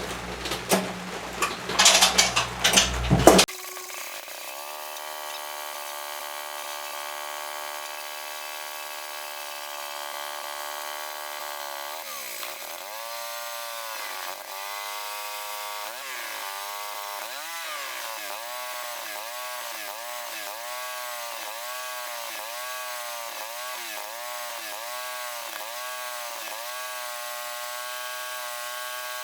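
MTD 8 hp chipper shredder's single-cylinder engine starting with a few seconds of loud clatter, then running steadily. From about twelve seconds in its speed surges up and down over and over, roughly one and a half times a second: hunting from a lean carburettor starving for fuel.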